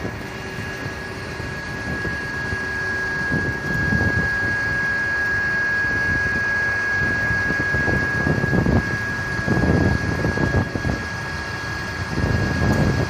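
A vehicle's machinery running with a steady high whine, over irregular low rumbling that swells and fades, like wind buffeting the microphone.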